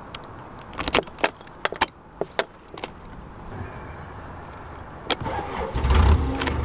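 A run of sharp clicks and rattles, then about six seconds in a narrowboat's diesel engine comes in and runs steadily.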